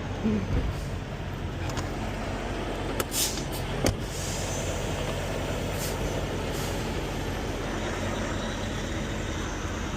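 Semi truck idling with a steady low rumble, with a short hiss of air about three seconds in and a few sharp clicks, the sharpest just before four seconds.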